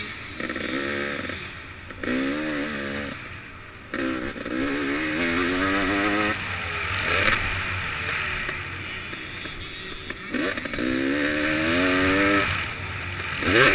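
KTM 300XC two-stroke dirt bike engine revving hard in repeated pulls, its pitch climbing and then dropping off as the throttle is rolled off and on around the track. A steady rush of wind noise runs underneath.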